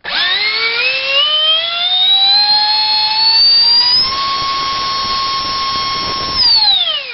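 64 mm electric ducted fan driven by a GoolRC 2968 3800 kV brushless motor on a 5-cell battery, spooling up from rest with a high whine that rises in pitch for about four seconds. It holds steady at full throttle for about two seconds, then spools down with a falling whine near the end.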